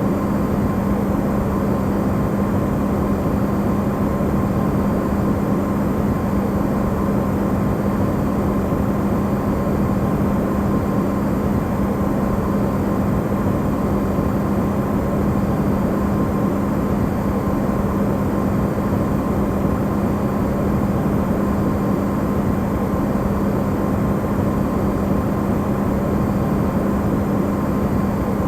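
Amplified recording of an Electrolux refrigerator running: a steady, unchanging hum with a strong low tone and a rushing noise beneath it.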